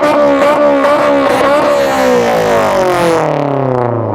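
Honda S2000's four-cylinder engine revved hard through its exhaust, held high with small wavers, then the revs fall away from about three seconds in as the throttle closes.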